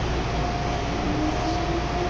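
Heard from inside a Meitetsu commuter train pulling out of a station: a steady low running rumble, with a whine that climbs in pitch as the train gathers speed.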